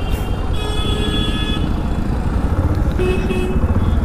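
Bajaj Platina 110's 115cc single-cylinder air-cooled engine running at low speed, heard from the rider's seat. A vehicle horn sounds twice: about half a second in for about a second, and again briefly about three seconds in.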